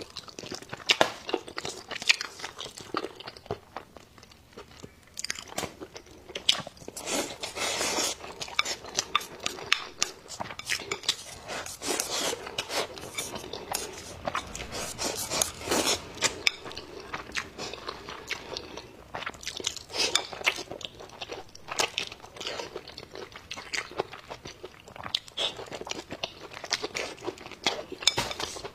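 A person chewing a mouthful of braised meat and rice, picked up close by a clip-on microphone: fast, irregular wet clicks of the mouth and teeth.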